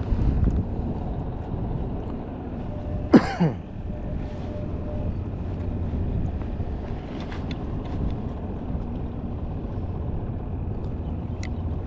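Steady wind and water noise around a small fishing skiff. About three seconds in comes one short, loud sound that falls in pitch.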